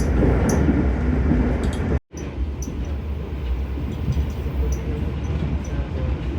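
Passenger train running on rails: a steady low rumble with a few faint sharp clicks. The sound drops out for an instant about two seconds in, then comes back quieter and duller.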